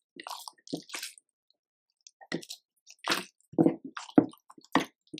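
Slime being squeezed and folded by hand, making a run of short, irregular wet squishes and pops.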